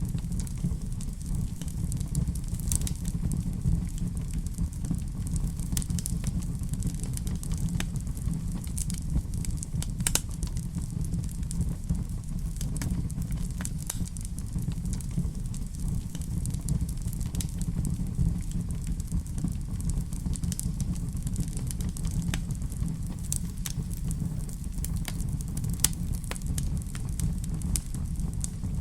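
Fire burning in a fireplace: a steady low rumble with scattered sharp crackles and pops throughout.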